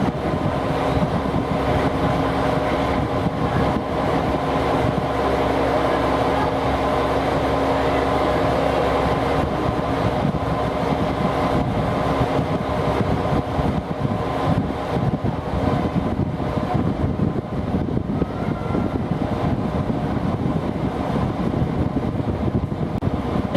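Diesel railcar engine running at the station, a steady hum with several held tones over a low rumble; the tones fade about halfway through while the rumble goes on.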